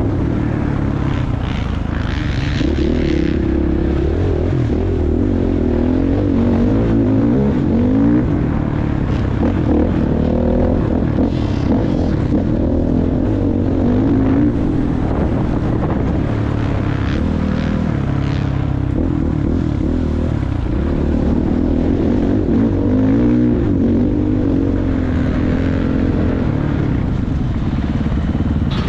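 Motocross bike engine running under load, its pitch rising and falling over and over as the throttle is opened and closed.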